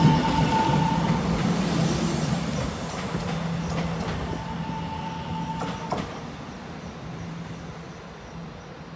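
A Taiwan Railway train running past on the track and fading away, with a steady low motor hum and two brief high wheel squeals, the second ending in a sharp click.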